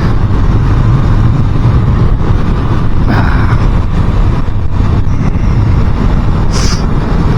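Motorcycle on the move: engine running steadily under heavy wind rush and road noise on the camera's microphone, with a brief hiss about six and a half seconds in.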